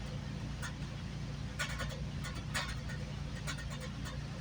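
Interior of a GO Transit commuter train in motion: a steady low rumble from the running train with short, high-pitched squeaks and clicks scattered through it.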